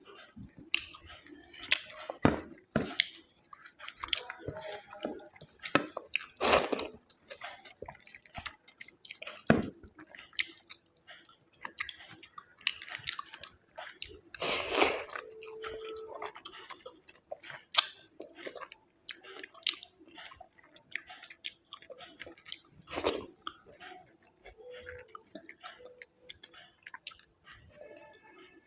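Close-miked chewing and eating of chicken biryani, with many irregular wet mouth clicks and smacks.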